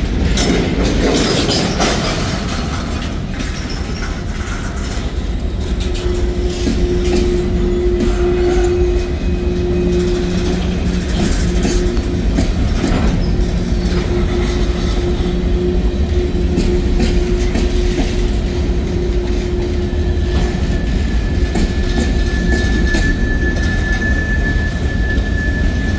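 Freight train's boxcars and covered hopper cars rolling past: a steady rumble with wheels clicking over rail joints, a low whining tone through the middle, and a thin high wheel squeal starting about twenty seconds in.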